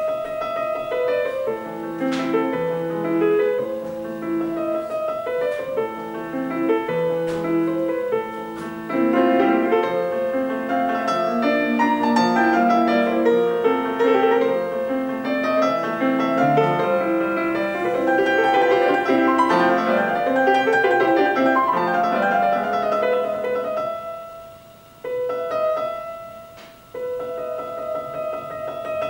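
Piano music played back through a small home-built speaker during a sound test, with two brief quiet passages near the end.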